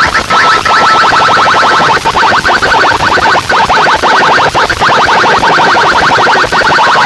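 Electronic chirp tones played very loud through a large PA sound system, repeating rapidly with a steady high tone underneath and brief breaks.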